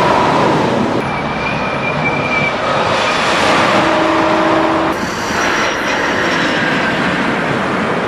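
High-speed train running at speed: a steady rushing noise with faint held whines, changing character abruptly about one second and again about five seconds in.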